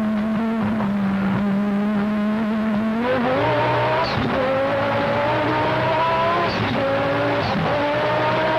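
A car engine held at steady revs for about three seconds, then accelerating hard, its pitch climbing and dropping back at each of several gear changes.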